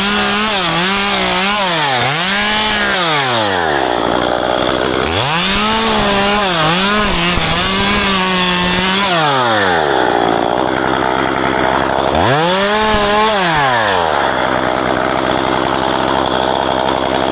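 Two-stroke chainsaw revved up three times, its pitch dipping briefly under load as it cuts ficus branches, and dropping back to idle in between.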